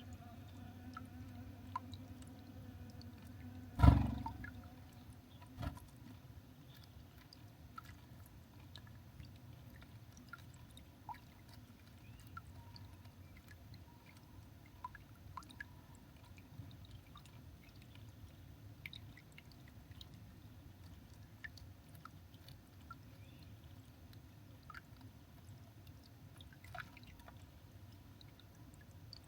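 Garden birds at a feeder, scattered light clicks and taps of pecking and handling seed. A loud sharp knock about four seconds in, with a smaller one a couple of seconds later.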